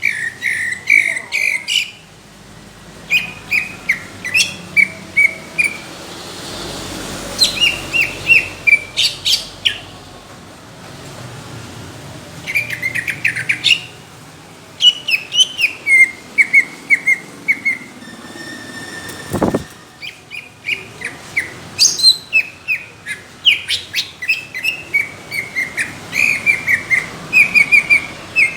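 Cucak ijo (green leafbird) singing in loud bursts of rapid, chattering, sliding notes, each phrase a few seconds long with short pauses between. This is the coarse, thick 'tembakan' song that bird-contest fanciers prize. A single dull thump comes about two-thirds of the way through.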